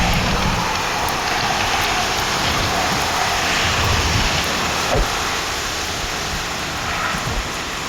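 Strong gusty wind blowing over the microphone, a steady loud rushing noise, with one brief knock about five seconds in.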